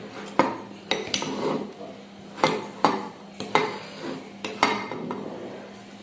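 Metal spoon stirring curry in a cooking pot, clanking and scraping against the pot's sides, about eight knocks at irregular intervals.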